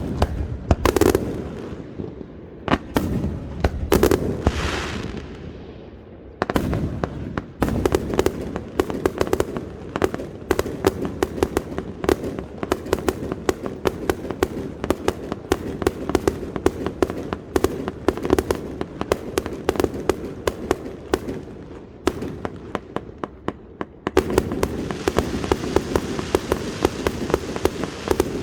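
Fireworks display: a few separate aerial shell bursts, each a heavy bang with a long echoing tail, then about six seconds in a rapid string of pops and bangs, several a second, that grows denser and louder near the end.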